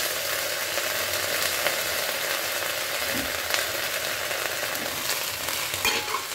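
Onion slices and ginger-garlic paste sizzling steadily in hot oil in a stainless steel kadai, with a steel plate held over the pan as a lid.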